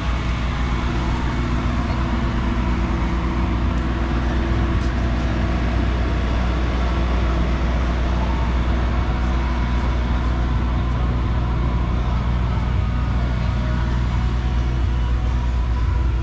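A car engine idling steadily, with a constant low hum and no change in speed.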